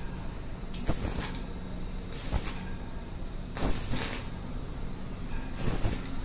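Stainless steel railing installation work: four short noise bursts, roughly one every second and a half, over a steady low hum.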